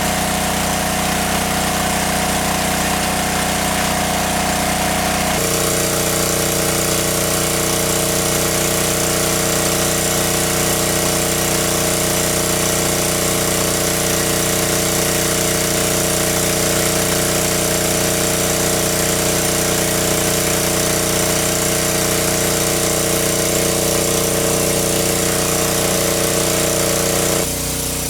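A small engine running steadily, its pitch stepping to a new setting about five seconds in and again near the end.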